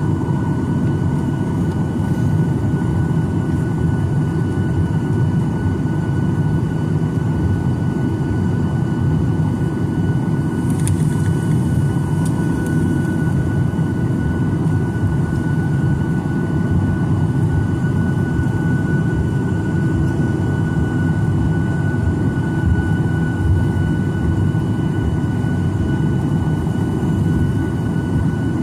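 Steady jet engine and airflow noise of a Boeing 737-900ER with CFM56-7B engines, heard from inside the passenger cabin: a loud, even low rumble with a thin steady high tone over it.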